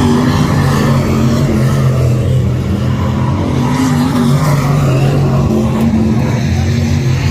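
Race car engines running on a speedway track: a loud, steady drone whose pitch wavers slightly up and down.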